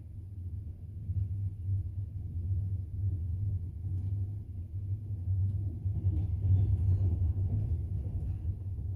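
Low, steady rumble of a moving double-decker passenger train heard from inside the carriage, growing a little louder about six seconds in.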